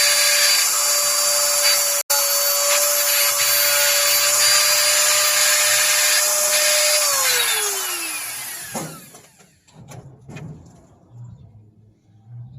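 High-speed electric power tool running steadily on wood, with a brief cut-out about two seconds in; it is switched off about seven seconds in, its whine falling in pitch as it winds down, and a few faint knocks follow.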